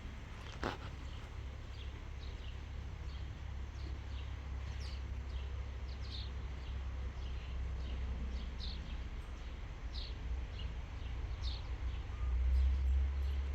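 A small bird calling repeatedly in short, high, falling chirps, about one or two a second, over a steady low rumble that grows louder near the end.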